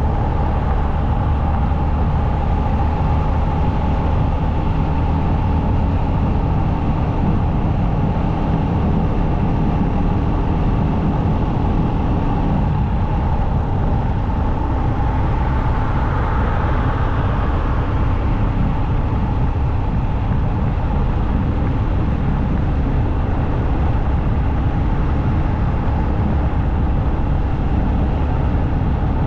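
Motorcycle at highway speed: a steady engine drone under a heavy rush of wind and road noise. About halfway through, a hiss swells and fades away again.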